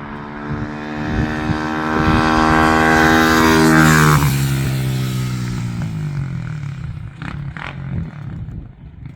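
XPRO Hawk 150cc pit bike engine revving under throttle, its pitch and loudness climbing for about four seconds. Then the pitch drops sharply and the engine winds down and fades. The engine breathes through a NIBBI high-flow air cleaner fitted to cure its sluggish top end.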